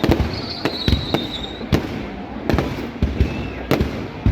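Fireworks display: aerial shells bursting in quick, irregular bangs. A high steady whistle sounds through about the first second and a half.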